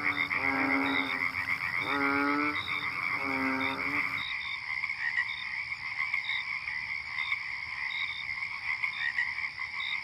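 Frogs calling: three drawn-out, wavering croaks, each about a second long, in the first four seconds, over a steady high-pitched trilling chorus with short repeated chirps. After the croaks stop, the chorus carries on alone.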